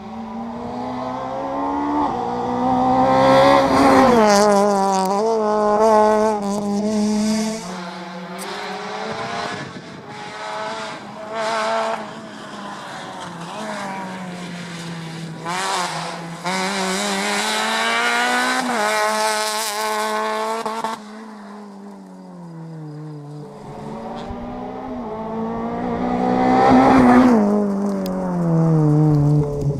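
Rally car engines at full throttle on a stage, the note rising and falling with throttle and gear changes, loudest about four seconds in and again near the end, with tyres squealing.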